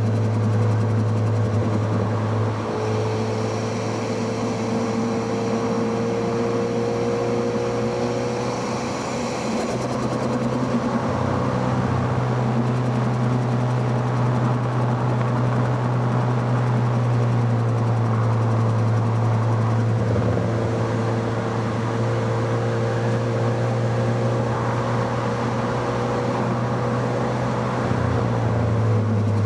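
Four-cylinder sports car engine heard close at the intake and exhaust while driving, a steady drone whose pitch climbs slowly under load, changing about ten seconds in, again around twenty seconds in, and once more near the end.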